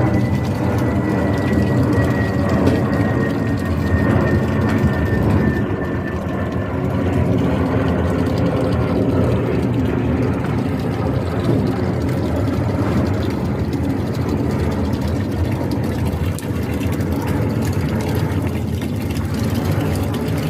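Boeing 747 jet engines: a loud, steady rumble, with a high whine that slowly falls in pitch over the first six seconds.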